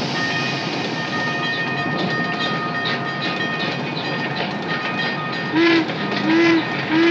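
Hallmark Lionel toy train running on its track: a steady motor and wheel noise with small clicks. Near the end come quick short whistle toots, about one every 0.7 seconds.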